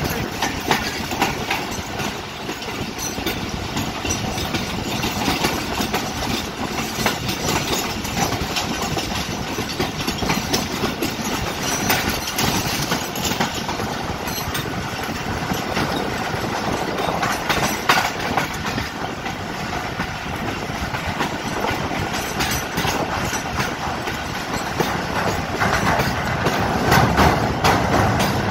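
Passenger train running at speed, heard from beside a moving coach: a steady rumble of wheels and rushing air, with the clickety-clack of wheels over rail joints. Near the end it grows louder as the train runs onto a steel truss bridge.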